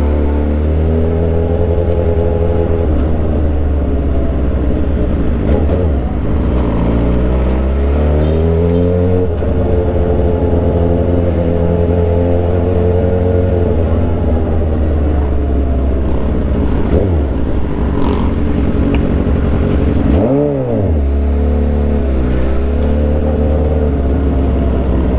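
Suzuki GSX-R 750 inline-four with an aftermarket Orion exhaust, riding: the engine pitch climbs and drops several times as it is revved and shifted, with a quick, sharp rev blip about twenty seconds in.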